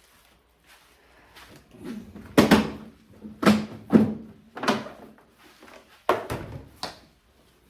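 Plastic cat litter boxes being handled: a run of about seven knocks and scrapes, bunched between about two and seven seconds in.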